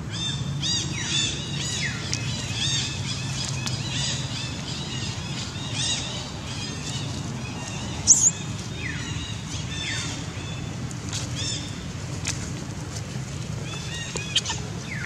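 Many small birds chirping in short, quick notes, thickest in the first half, over a steady low hum. About eight seconds in comes one short, shrill rising squeal, the loudest sound.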